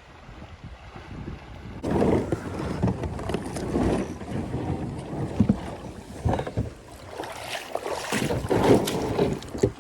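Water rushing and splashing around a kayak, mixed with wind buffeting the microphone, in irregular loud surges that begin about two seconds in.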